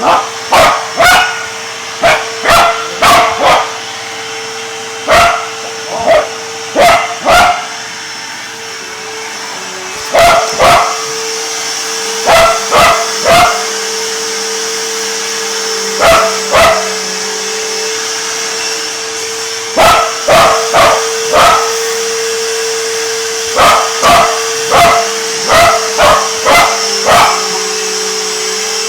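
A dog barking repeatedly in short volleys of two to five barks at a running vacuum cleaner, whose motor hums steadily underneath. The barking pauses for a couple of seconds now and then, while the vacuum keeps running.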